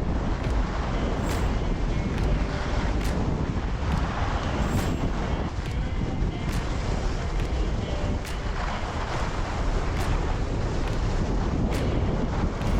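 Strong wind buffeting the microphone: a loud, steady rumbling rush with scattered brief clicks.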